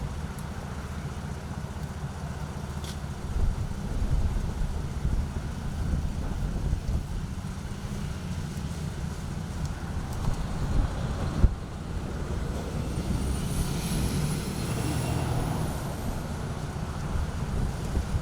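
Low outdoor rumble of wind on the microphone and road traffic. There is one sharp knock about eleven seconds in, and a faint high whine rises and falls a few seconds later.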